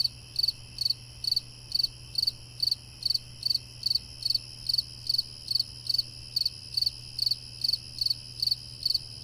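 Crickets chirping at night in an even rhythm, about two to three high chirps a second, over a continuous high insect trill.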